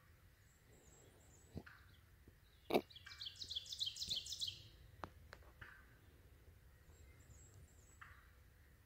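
A single sharp knock, then a bird calling in a rapid run of sharp, high chirping notes for about a second and a half. A few faint short calls sound lower down before and after.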